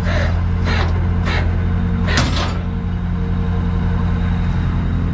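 Truck engine idling steadily, with four short hissing or rattling bursts in the first two and a half seconds, the loudest about two seconds in.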